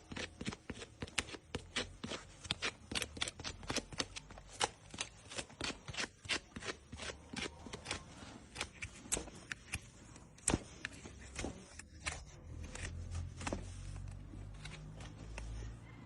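Hand tools working on a horse's hoof, making quick, irregular sharp clicks and snips, several a second, that thin out after about ten seconds. A low rumble comes in near the end.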